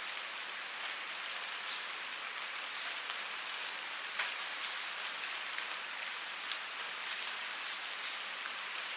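Steady rain falling, a dense even hiss with a few louder single drops ticking through it.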